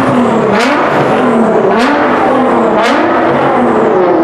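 A supercar engine accelerating hard through the gears. Its note climbs, drops at each of three quick upshifts, then climbs again, with a sharp crack at each shift.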